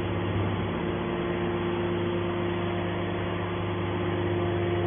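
Scrap metal baler's hydraulic power unit running: a steady hum with a held tone over a low drone.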